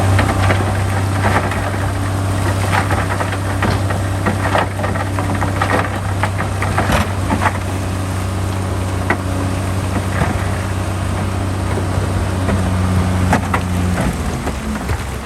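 Heavy diesel engine of earthmoving machinery running steadily, with scattered metallic clanks and rattles over it. The engine note changes near the end.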